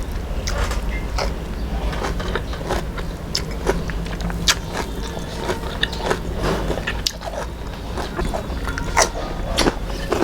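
Close-up eating sounds: chewing with many short, irregular mouth clicks, several a second, over a steady low hum.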